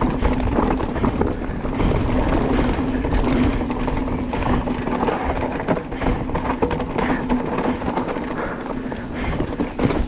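Marin Alpine Trail E2 electric mountain bike being ridden over a rough trail: wind noise on the microphone, the tyres rolling, and a constant clatter of small knocks and rattles from the bike. A steady low hum sits underneath.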